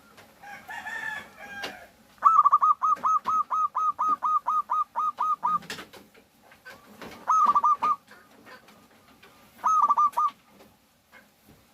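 Zebra dove (perkutut) singing: a fast run of about sixteen short cooing notes, each dropping in pitch, then two short bursts of four or five such notes. Another bird's call comes just before the run.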